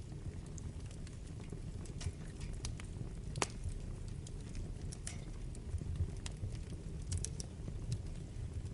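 Wood fire burning in a fireplace: a steady low rumble of the flames with scattered sharp crackles and pops, one louder pop about three and a half seconds in.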